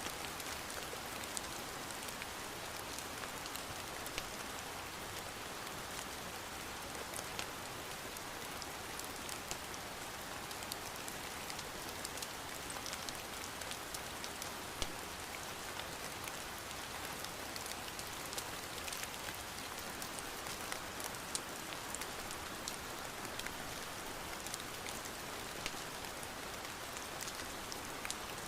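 Steady rain pattering on a surface, an even hiss with many small, sharp ticks of drops scattered through it.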